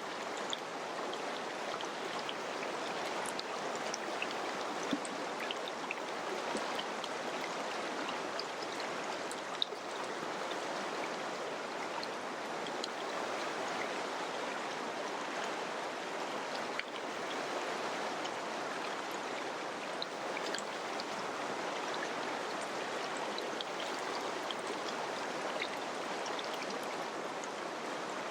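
Mountain river flowing: a steady, even rush of water with scattered small ticks of splashing.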